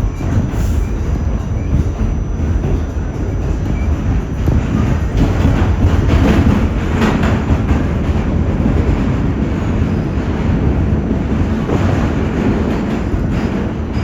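R46 subway train running in a tunnel between stations: a steady, loud rumble of wheels on rail.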